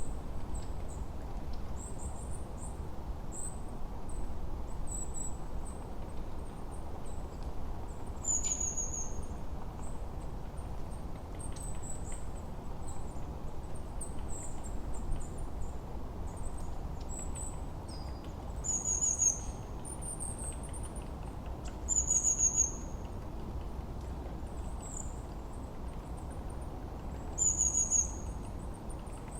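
Small songbirds chirping in short, very high notes, several sliding down in pitch, scattered every second or two. Underneath runs a steady low rush of forest ambience.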